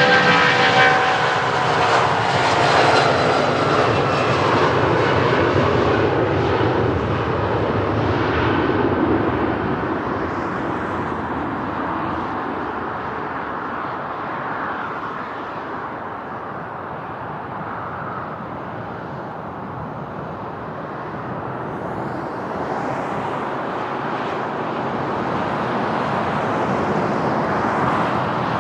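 Airliner engines passing close by: a whine that falls in pitch during the first few seconds as the plane goes past, then a rushing noise that slowly fades and swells again near the end.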